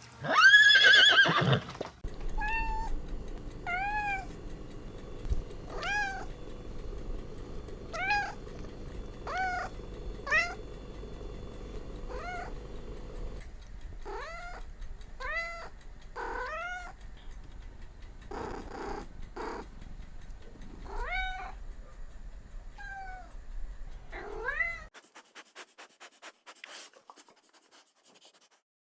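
A domestic cat meowing over and over: one loud drawn-out call at the start, then a long series of short meows about a second or two apart. A faint, rapid ticking follows near the end.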